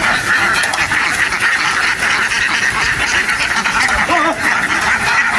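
A large flock of domestic ducks quacking together in a dense, unbroken chorus.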